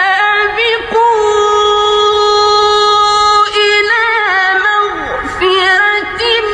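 Quran recitation in the melodic tajweed style: a single high-pitched male voice holds long notes with wavering ornamental turns. There are brief pauses between phrases, the longest about five seconds in.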